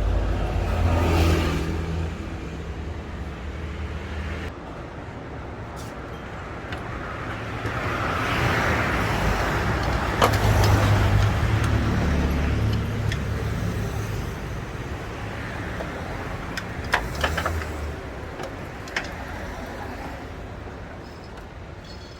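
A motor vehicle engine running nearby, growing louder and fading twice, with a few sharp metallic clicks.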